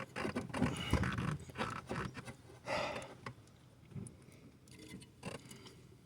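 Faint, scattered clicks and scrapes of hand tools working in a Chevy big block's engine bay, busier in the first few seconds and then sparse.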